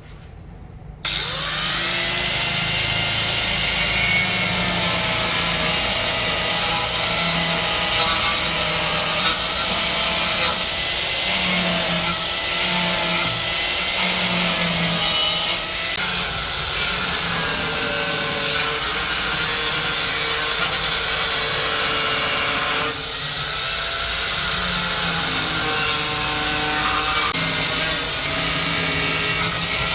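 A power tool running steadily under load, switching on about a second in, its pitch wavering as it works.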